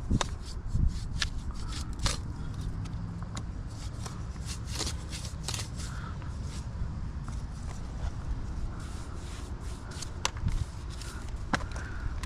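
Mortar being raked back out of brick joints with a hand tool: irregular scraping and clicking strokes of metal against brick and mortar, so the joints can be tuck-pointed with fresh mortar.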